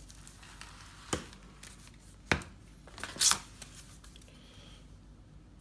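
Fireworks packaging being handled: cardboard boxes and wrapped items knocking and rustling, with two sharp knocks and a brief brighter rustle or scrape about three seconds in.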